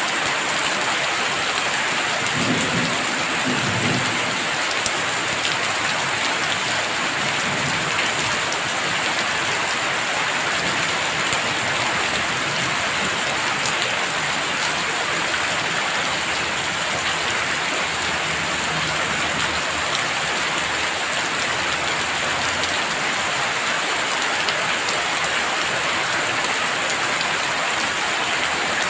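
Heavy rain falling steadily in a dense, even hiss, with a brief low rumble of thunder about three seconds in.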